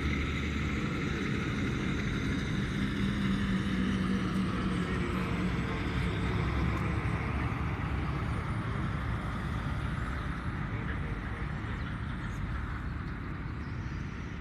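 An engine running steadily with a low hum and a faint pitched tone that drifts a little, easing off slightly over the last few seconds.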